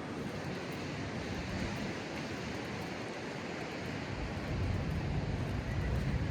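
Steady wash of ocean surf with wind on the microphone, a low rumble growing louder about four seconds in.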